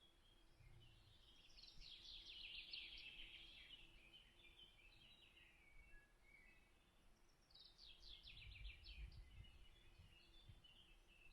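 Faint songbird singing in two quick, chirping phrases of rapid notes, the second starting about two-thirds of the way through, over soft low thumps.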